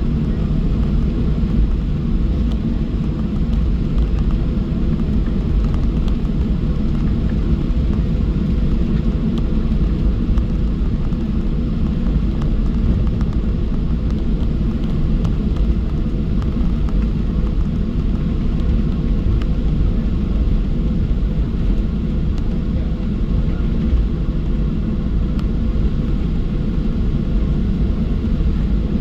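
Cabin noise of a Boeing 737-700 taxiing: a steady low rumble from its CFM56-7B engines at taxi power and the rolling airframe, with no rise or change.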